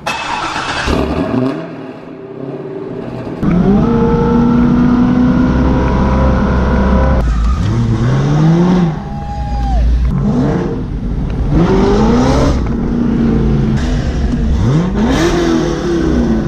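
Supercharged 6.0-litre LS2 V8 of a 2005 C6 Corvette, breathing through SLP headers, an X-pipe and a Corsa Extreme exhaust. It holds a loud steady engine speed for a few seconds, then is revved in several sweeps that climb in pitch and drop away.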